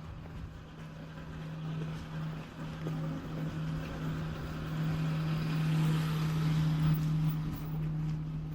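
A vehicle passing by, its sound building to a peak about six to seven seconds in and then easing, over a steady low hum.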